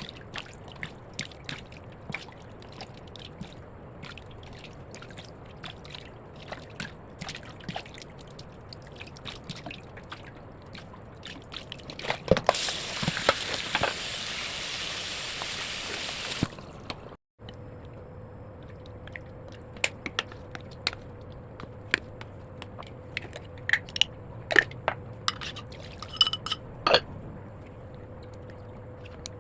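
Cooking sounds: scattered light clicks and taps of utensils, with a steady rushing hiss lasting about four seconds midway. A faint steady hum runs through the second half.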